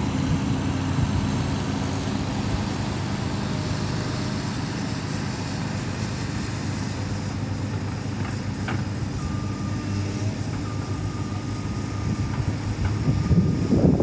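Excavator's diesel engine running steadily, with a faint high steady whine from about nine seconds in. The sound grows louder and rougher near the end.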